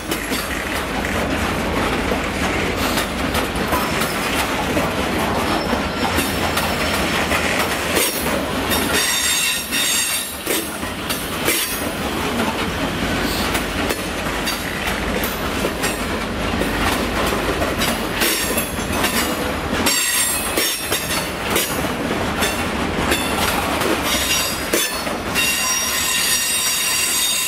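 A freight train of bogie coal hopper wagons in EWS livery rolling past: a steady rumble with the wheels clacking over rail joints, and a thin high wheel squeal that comes and goes, strongest near the end.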